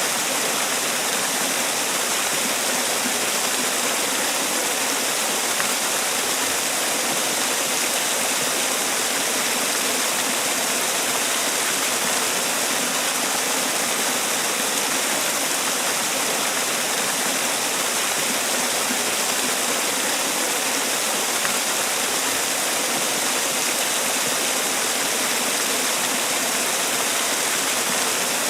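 Man-made waterfall: water falling and splashing in a steady, unbroken rush.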